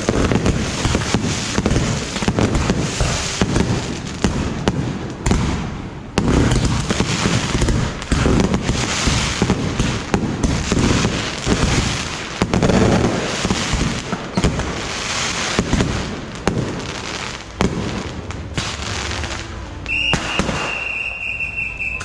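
Beehive firework barrage: masses of rockets and firecrackers going off together in rapid, overlapping cracks and bangs, dipping briefly a couple of times. A steady high tone joins near the end.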